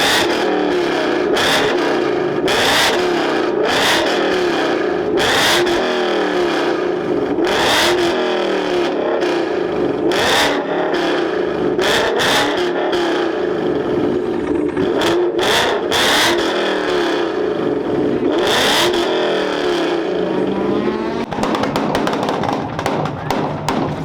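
A car engine held at high revs against its rev limiter in a rev battle, its exhaust banging sharply about every second. Near the end the revs sweep up.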